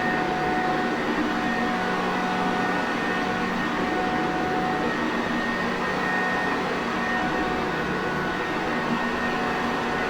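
Sanitaire Perfect vacuum cleaner running steadily: an even motor-and-airflow noise with a faint steady hum and whine in it.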